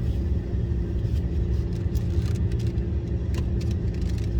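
Car running, heard from inside the cabin: a steady low rumble with a faint even hum, and a few small clicks.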